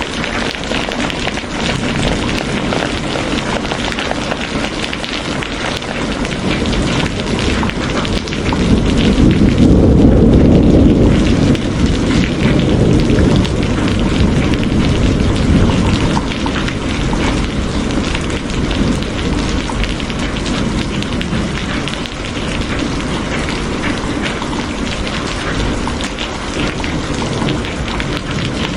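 Steady heavy rain, with a low rumble of thunder that swells about eight seconds in and fades a few seconds later.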